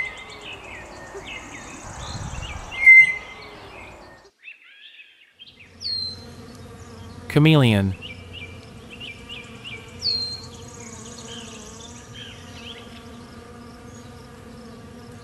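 A flying insect buzzing steadily through the second half, with bird chirps over it. Before it there is a stretch of bird chirps with two short loud calls about three seconds apart, then a brief gap.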